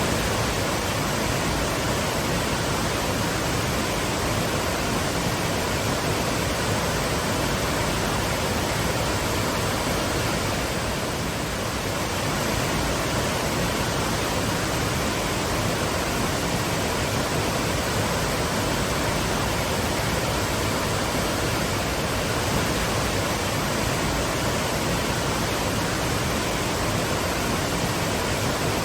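Waterfall rushing: a steady, even roar of falling water with no pauses or changes.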